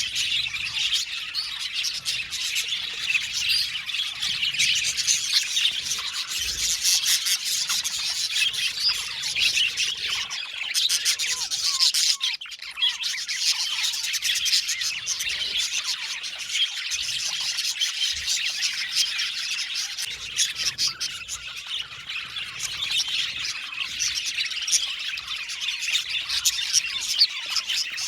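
A flock of budgerigars chirping and chattering, many calls overlapping without a break, easing off briefly about twelve seconds in.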